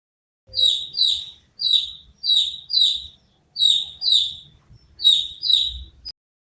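Domestic chick peeping: nine short, high, falling peeps, mostly in quick pairs.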